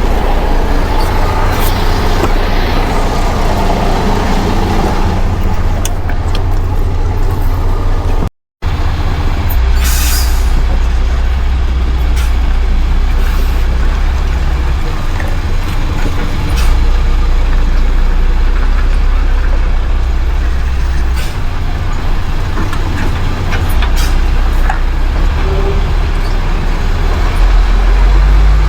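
Heavy truck's diesel engine running steadily at low revs, with a short hiss of air about ten seconds in, as from the truck's air brakes. The sound drops out for an instant about eight seconds in.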